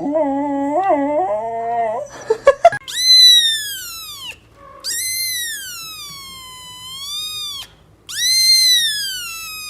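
Dog howling and whining: a low wavering howl for about two seconds, a few short yips, then three long high cries that each fall away in pitch.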